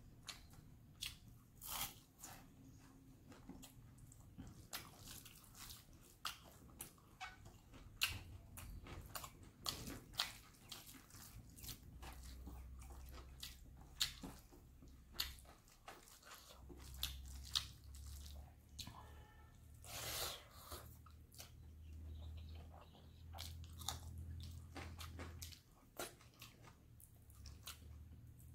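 Close-miked eating: chewing with many sharp, crisp crunches spread throughout, a person eating a meal of crispy dry fish and rice by hand.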